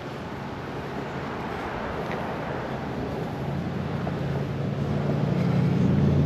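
A motor vehicle passing: a low engine hum builds over a few seconds and is loudest near the end, over a steady rushing background.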